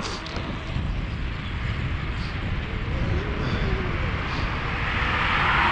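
Steady low rumble of a moving vehicle or passing traffic, with a rush of noise swelling near the end.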